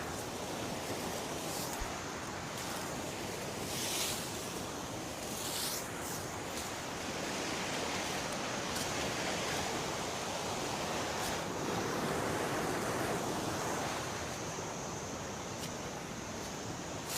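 Steady rush of river water, with two brief swishes about four and six seconds in.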